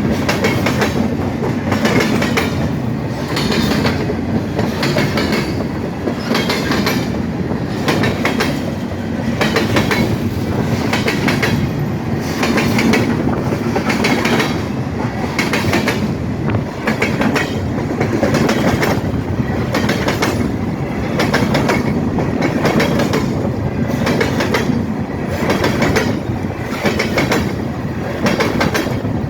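Freight train cars rolling past at speed, their wheels clicking over the rail joints in a steady repeating clatter over a continuous rumble.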